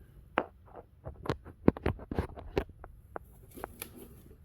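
A quick, irregular run of light clicks and taps from hands handling a sewing machine, bunched about a second to three seconds in.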